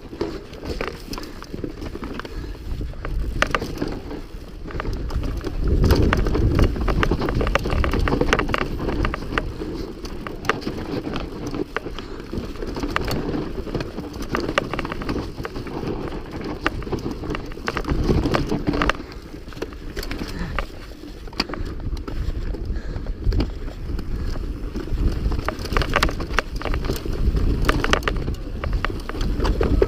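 Mountain bike ridden fast over a rough dirt trail: a steady low rumble of tyres on dirt and stones, with many quick rattles and clicks from the bike over the bumps.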